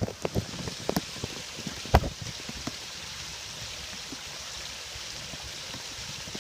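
Storm runoff rushing into a sewer drain, a steady watery hiss. Scattered splashing knocks come in the first few seconds, the sharpest about two seconds in.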